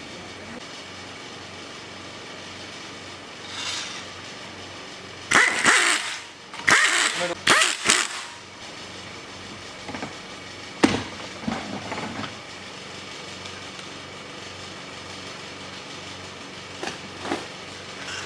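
Workshop noise: a steady hum, broken by several short, loud bursts of noise a few seconds in and then a single sharp knock.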